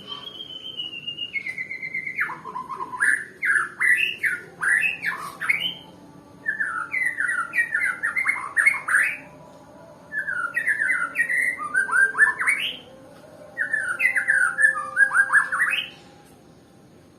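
White-rumped shama singing: a held whistle that steps down in pitch, then four phrases of quick rising and falling whistled notes, each a few seconds long, separated by pauses of about a second.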